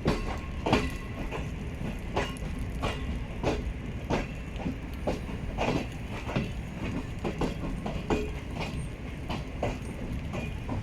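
Railway coaches of an arriving passenger train rolling slowly past, wheels clacking over rail joints about one and a half times a second over a steady low rumble.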